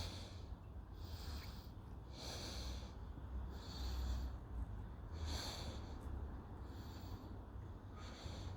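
A man breathing close to the microphone: soft, hissy breaths about every second or so.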